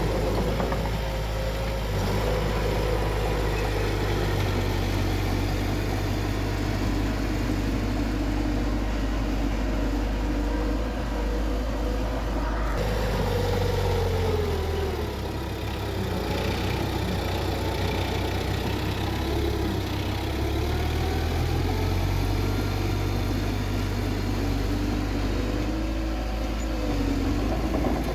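Bulldozer's diesel engine running steadily under work, its pitch dipping and rising a few times past the middle as the load changes.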